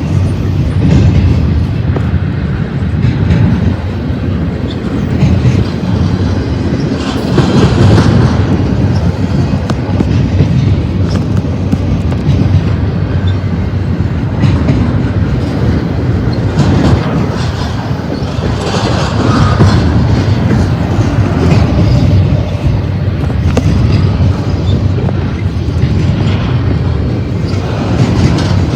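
BNSF double-stack container freight train rolling past: a steady low rumble from the wheels and cars, with irregular clicks and clatter of wheels over the rails.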